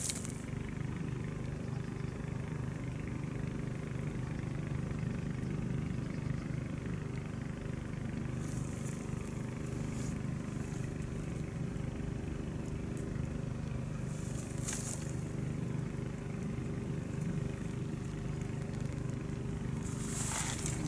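Steady low mechanical hum, like an engine running unchanged throughout, with a few brief high rustles.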